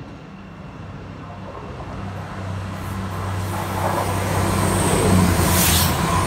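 Class 222 Meridian diesel multiple unit approaching fast and passing close by without stopping. The steady drone of its underfloor diesel engines grows louder along with the rush of wheels on rail, peaking in a loud whoosh as the front of the train goes past about five and a half seconds in.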